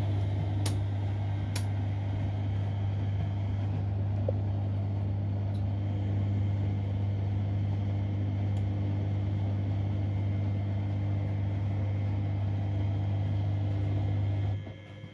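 Siemens Extraklasse XLs 140 A washing machine running with a steady low hum, which cuts off suddenly near the end.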